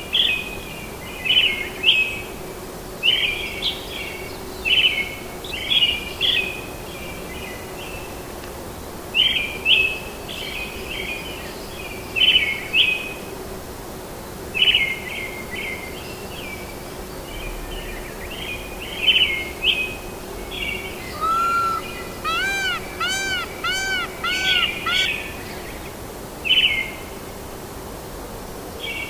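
Wild birds singing: one bird repeats short chirping phrases every second or two, and about two-thirds of the way through another bird gives a run of about six arched, ringing notes. A steady hiss of ambience and a faint hum lie underneath.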